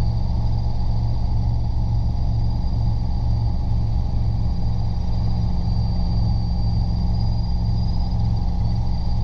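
Robinson R22 helicopter in forward flight: a steady, loud engine and rotor drone with a slight regular pulsing, and a thin steady high-pitched whine above it.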